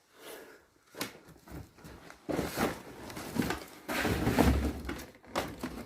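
Footsteps and debris knocking and scraping as someone picks his way over rubble and trash, irregular and getting busier from about two seconds in, with heavier thuds a little past the middle.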